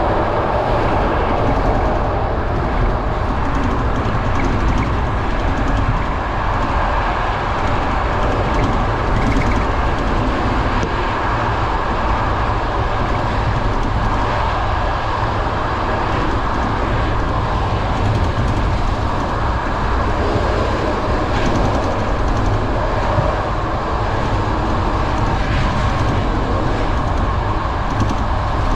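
Steady running noise of a moving passenger train, wheels on rails, heard at an open carriage window.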